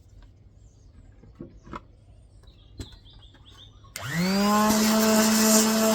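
A few light clicks and knocks of handling, then about four seconds in an electric palm sander is switched on, its motor spinning up quickly to a steady high hum.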